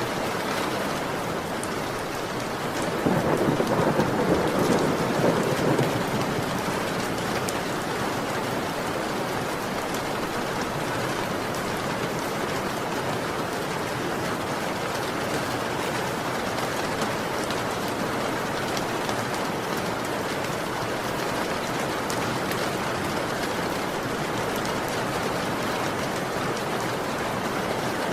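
Heavy rain falling steadily, with a roll of thunder rumbling about three seconds in and fading a few seconds later.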